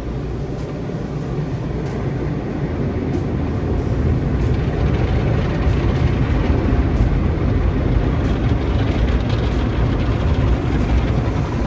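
Automatic car wash's spinning brushes scrubbing over the car, heard from inside the closed cabin: a steady rushing noise that grows louder about four seconds in.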